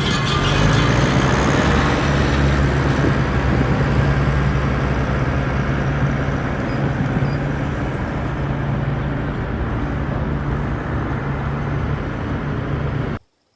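Homemade scrap-metal mini tractor running steadily, a low motor hum with a noisy wash over it, as it works the ground with its offset disc harrow. The sound cuts off suddenly near the end.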